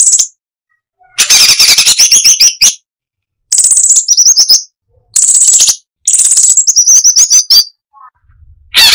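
Striated bulbul (cucak cungkok) singing in loud repeated bursts of very rapid, harsh notes, each burst ending in a quick run of higher warbled notes, with short pauses between bursts.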